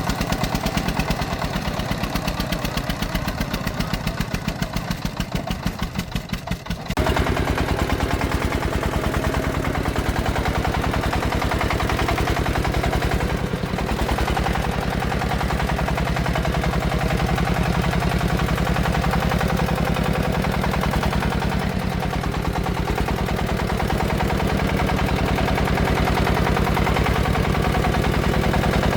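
Single-cylinder diesel engine of a công nông farm truck running with a rapid, even chugging knock. About seven seconds in it gets abruptly louder and fuller, and it stays that way.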